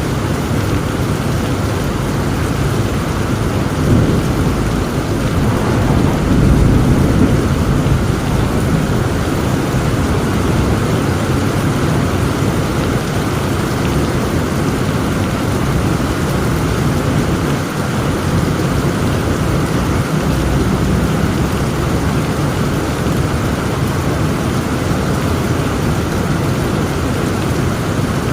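Heavy rain falling steadily, with rolling thunder rumbling low about four seconds in and again around six to seven seconds in.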